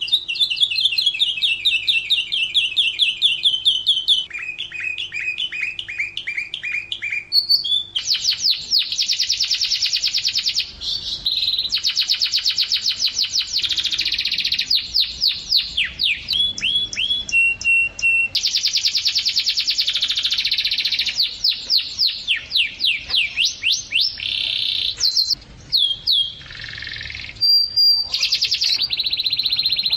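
Domestic canary singing a long, continuous song of fast trills, each phrase a rapid run of repeated notes that switches to a new trill every second or few.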